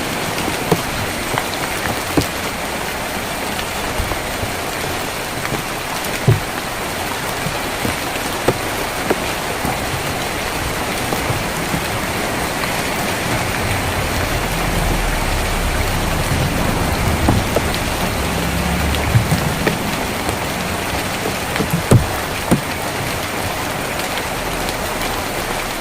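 Steady rain falling on a tin roof, with scattered louder drops ticking sharply on the metal. A low rumble comes in about fourteen seconds in and dies away about six seconds later.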